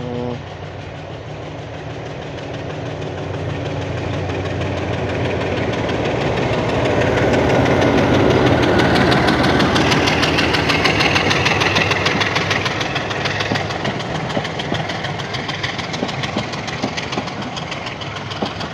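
A diesel-hauled passenger train pulls away past on the next track. The locomotive's engine grows louder as it passes, reaching a peak about halfway through, then the coaches roll by with a rapid, steady clatter of wheels on the rails.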